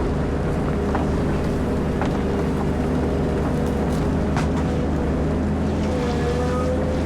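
Caterpillar 140M motor grader's diesel engine running steadily under work, with a few light ticks and a brief whine near the end.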